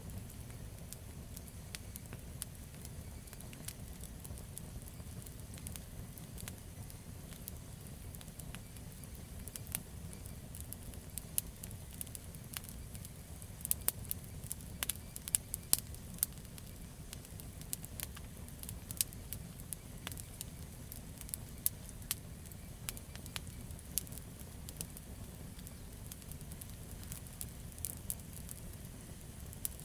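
Campfire of burning wood crackling: a steady low rumble of flame under irregular sharp pops and snaps, which come thickest about halfway through.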